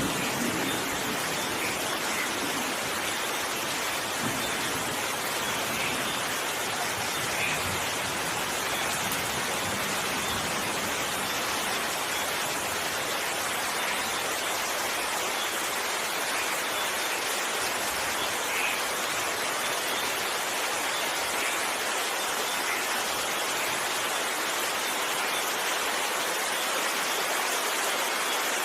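Steady rain falling, an even hiss of rainfall with faint scattered drops.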